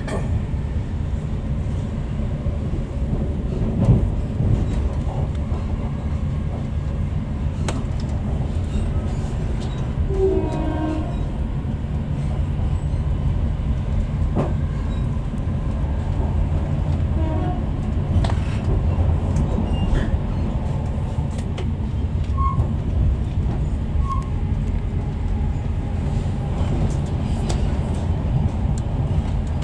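Interior of a Chiltern Railways passenger coach in a Class 68-hauled train at speed: a steady low rumble of wheels on the track, with occasional sharp clicks and knocks from the running gear and rail joints.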